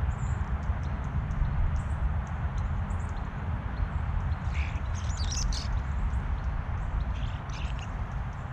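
Wild birds calling: scattered short chirps, a harsh burst of calls about five seconds in and another shorter one near the end, over a steady low rumble.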